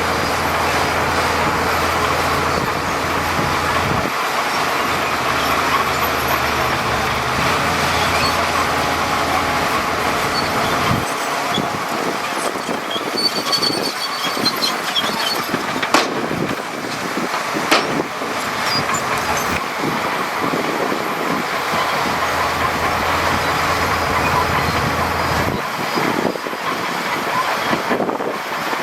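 Heavy diesel earthmoving machinery running steadily with metallic clatter and squeal, and a couple of sharp knocks a little past halfway.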